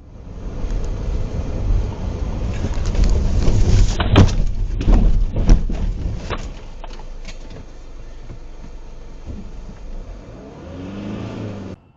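Car on the road with heavy low rumble, then a cluster of sharp bangs about four to five and a half seconds in, the sound of a collision. Quieter steady running follows, ending in a brief pitched sound before cutting off.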